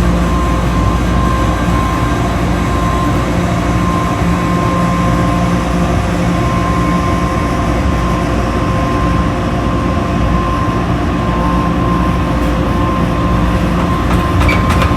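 Washing machine running with a steady motor hum and rumble. A fast, regular ticking starts near the end.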